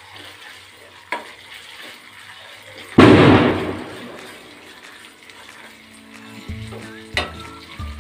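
Onions, ginger-garlic and curry leaves frying in oil in an aluminium kadhai, stirred with a metal spoon that knocks against the pan about a second in and again near the end. About three seconds in comes a loud sudden burst of sizzling that dies away over about a second.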